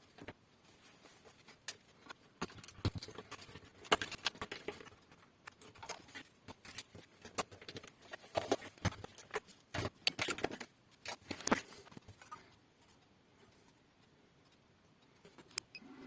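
Irregular clicks and light taps of small hard objects being handled, thickest in the middle and dying away near the end.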